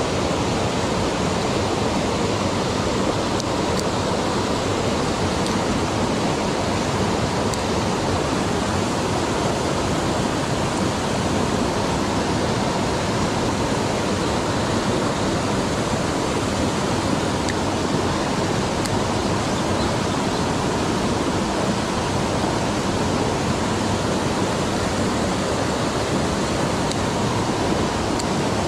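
Mountain stream rushing over rocks: a steady, even hiss of flowing water that does not let up.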